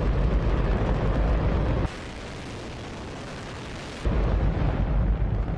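Hydrogen-oxygen rocket engine firing on a test stand: a continuous deep, loud roar. For about two seconds in the middle it turns thinner and hissier, then the full low roar comes back.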